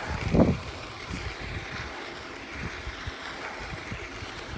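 Wind buffeting the camera microphone during a mountain bike ride: a steady low, uneven rumble and rush, with a short louder burst about half a second in.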